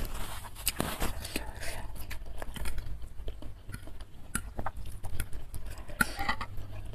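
Close-miked chewing and wet mouth sounds of someone eating spicy instant noodle soup, with many small sharp clicks.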